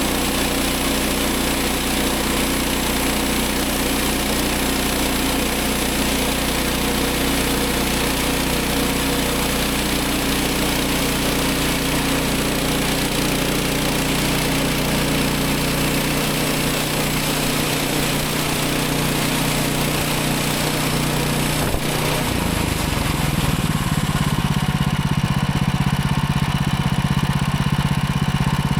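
Gas engine of a Woodland Mills 130 MAX bandsaw sawmill running steadily while the mill saws a log into a cant; its note changes a little past two-thirds of the way through.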